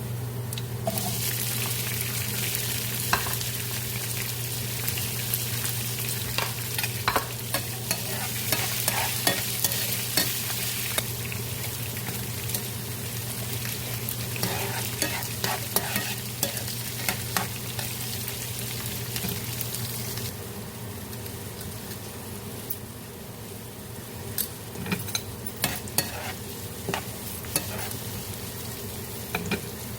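Food sizzling in a frying pan while a spatula stirs and scrapes it, with many scattered clicks against the pan. The sizzle eases about twenty seconds in, when a steady low hum stops.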